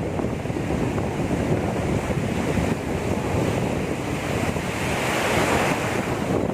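Sea surf: waves rushing and breaking on the beach, with wind buffeting the microphone; one wave surges louder about five seconds in.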